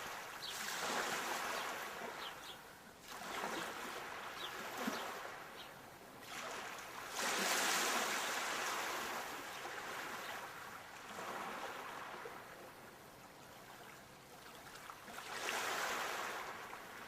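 Sea waves surging in and washing back: a hiss that swells and fades every few seconds, with the biggest wave about seven seconds in and another near the end.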